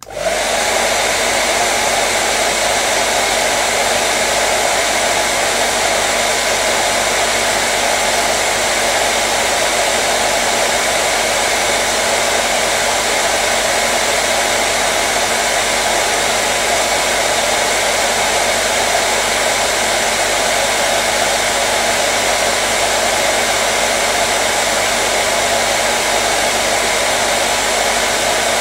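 Hair dryer running steadily: a loud, unchanging rush of blown air and motor noise.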